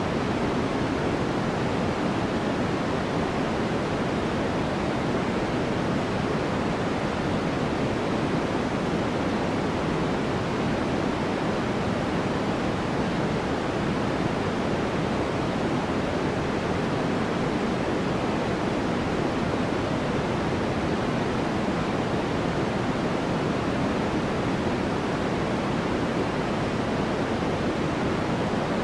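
Steady, unchanging white noise: an even hiss with its weight in the low-middle range rather than the treble.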